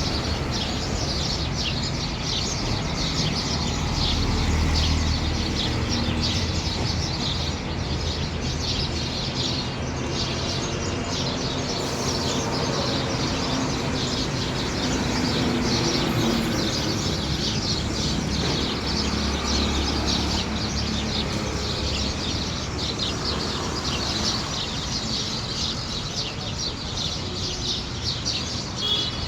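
Many small birds chirping at once in a dense, continuous chorus of short high calls. A steady low rumble runs underneath.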